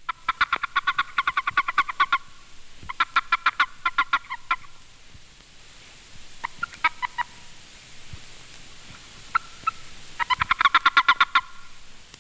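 Male boreal toad (Bufo boreus) giving its warning chirp, the call it utters when seized by another male: three bouts of rapid pulsed chirping, each one to two seconds long, with a few scattered single chirps between them.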